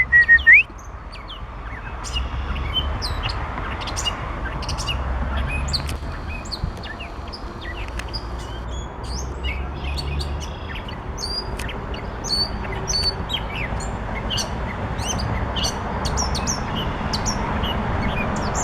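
Northern mockingbird singing: many short, varied chirps and phrases in quick succession, with a few louder notes right at the start, over a steady background hiss.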